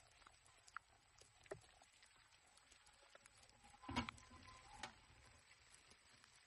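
Near silence with faint scattered ticks, and a sharp knock about four seconds in followed by a softer one just under a second later.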